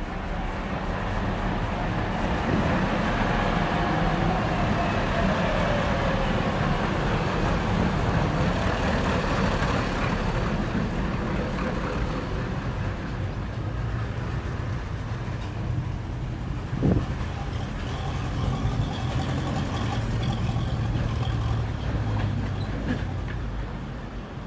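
Old tractor engine running steadily with a low hum, swelling in the first couple of seconds and easing off near the end, with one sharp knock about 17 seconds in.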